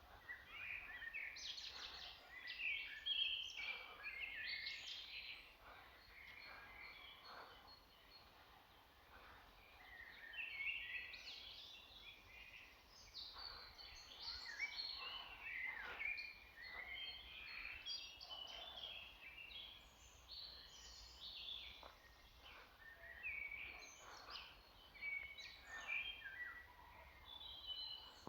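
Several birds singing and calling together: a dense chorus of short chirps and trills, overlapping throughout.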